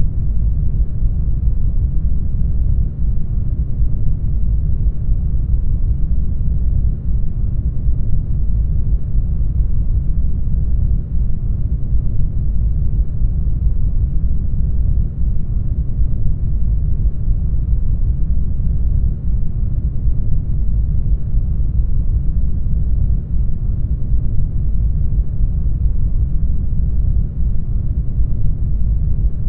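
Brown noise: a steady, deep, even hiss, strongest in the low bass and fading toward the treble, with no changes.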